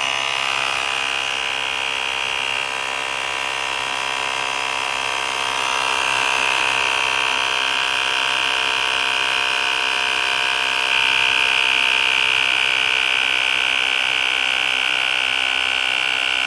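Cordless portable tire inflator's small electric compressor running steadily while pumping up a tire toward its 40 PSI set pressure, getting a little louder about six and eleven seconds in.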